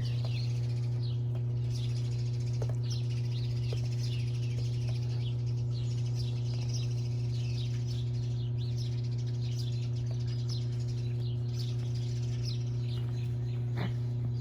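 Birds chirping in many short, quick, falling notes, over a loud steady low hum.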